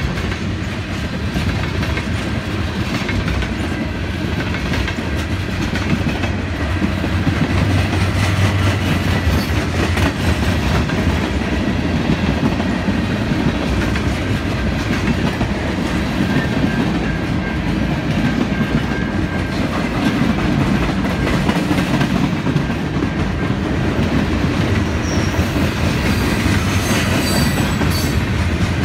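Freight cars of a mixed freight train rolling steadily past at close range: a continuous rumble of steel wheels on rail, with the clatter of wheels over the rail joints.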